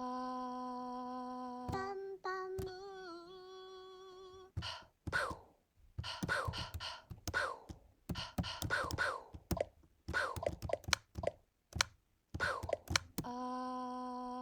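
Self-made vocal samples triggered from a digital sampler: a steady hummed note held for about two seconds, then a second, wavering hummed note. After that comes a quick run of short sounds whose pitch drops fast, with sharp clicks between them, and the first hummed note comes back near the end.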